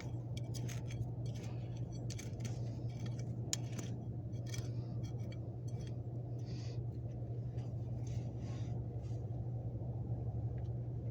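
Short, scattered scratchy scrapes of soil being dug away by hand around a buried toy truck, over a steady low hum.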